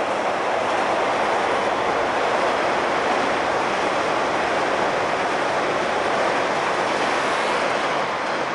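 A passenger train passing close by at speed: a steady loud rush of wheels on rails that holds level, then starts to fade as the train goes by near the end.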